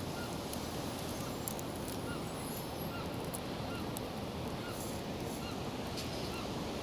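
Steady rushing noise with faint, short honking calls from birds, each call rising and falling, repeating about once or twice a second.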